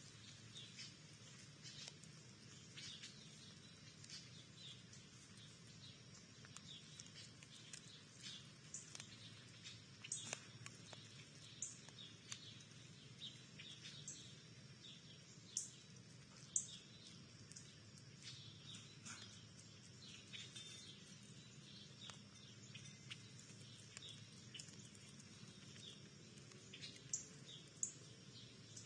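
Small birds chirping faintly and often: many short high chirps, with a few louder sharp ticks scattered through, the loudest about halfway.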